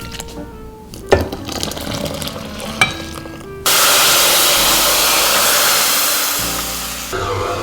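A loud hiss that starts suddenly about three and a half seconds in, fades slowly and cuts off near the end, over soft background music; two sharp knocks come before it.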